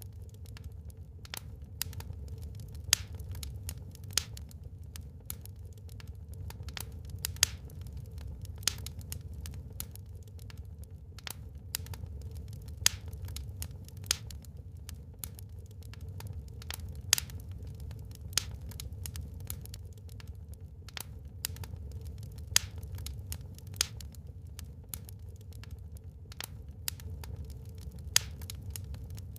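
Wood fire burning in a fireplace, crackling with irregular sharp pops, a few much louder than the rest, over a low steady rumble.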